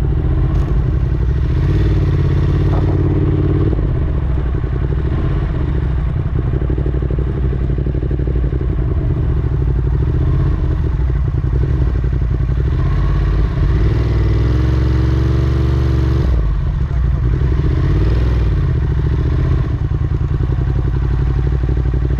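Ducati Monster 1200 motorcycle's L-twin engine running under way, its note steady for long stretches and shifting up and down a few times with throttle and gear changes.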